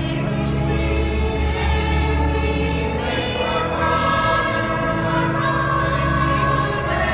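Choir singing a slow sacred piece in held, sustained chords, with steady low bass notes underneath.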